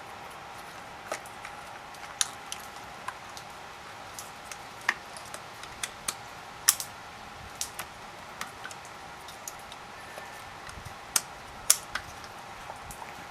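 Scattered small clicks and taps, irregular, about a dozen over the stretch with the sharpest around the middle and near the end: ignition coil packs being handled and pressed into place on the engine, their harness connectors clipped on. A faint steady hum runs underneath.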